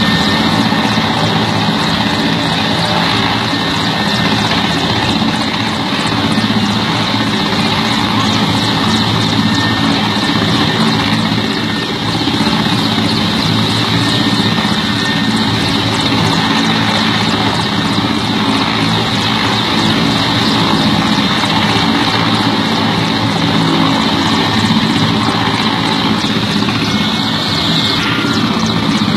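Mi-17 helicopter running at close range: its twin turboshaft engines give a steady high whine over the continuous beat of the rotor.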